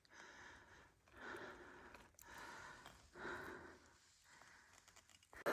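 Mostly near silence, with a man's faint breathing: three breaths about a second apart in the middle, after exertion.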